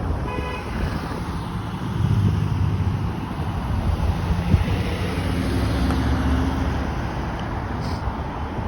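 Road traffic on a busy street: steady engine rumble and tyre noise from passing vehicles, with wind buffeting the microphone.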